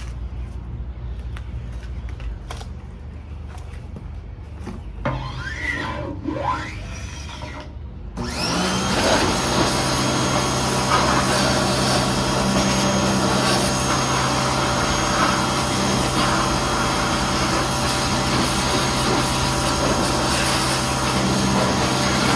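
Sun Joe SPX3000 electric pressure washer's motor starting abruptly about a third of the way in and then running steadily with a high whine.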